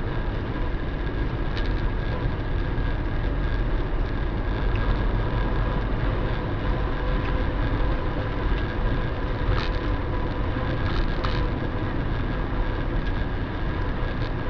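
Steady low road and engine rumble of a moving car, heard from inside the cabin through a dashcam's microphone, with a few faint clicks.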